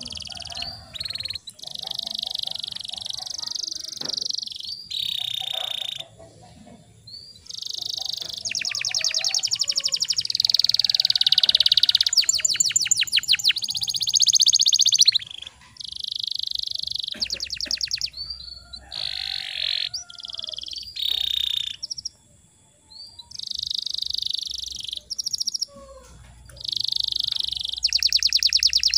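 Domestic canary singing in phrases of chirps and fast rolling trills, with short pauses between phrases.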